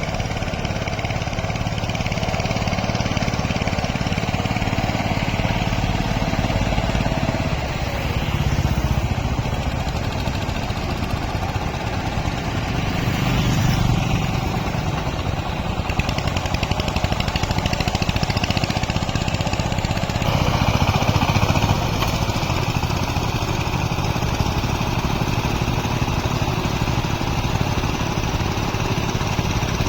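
Diesel tractor engine running steadily; its sound changes abruptly about twenty seconds in.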